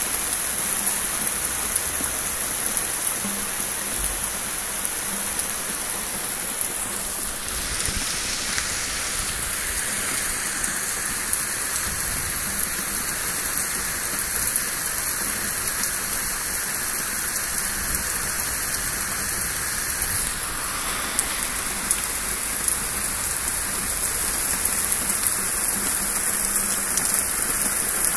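Steady heavy rain falling and spattering on surfaces during a thunderstorm, an even hiss with no thunder clap standing out.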